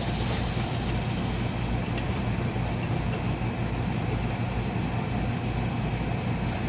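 Steady low mechanical hum, even and unchanging, with a faint high whine that stops a little under two seconds in.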